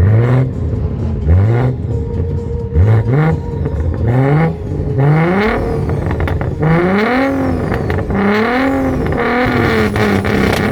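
A car engine revved again and again through a loud exhaust, each rev a quick rise in pitch, about eight in all, the later ones held a little longer before falling back.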